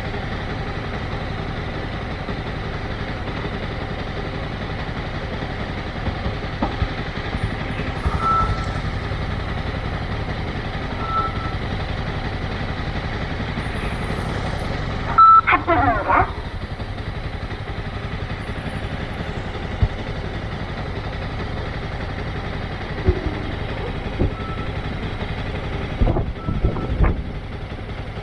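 Motorcycle engine running steadily at low speed, with a few short beeps over it and a couple of sharp knocks near the end.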